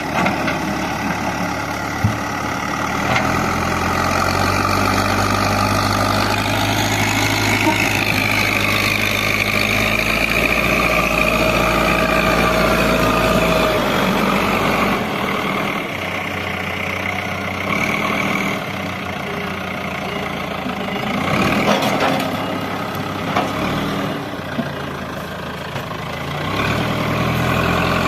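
JCB 3DX backhoe loader's diesel engine running under hydraulic load as it digs, with a whine over it. The revs drop about halfway through and rise again near the end, with a few sharp knocks in between.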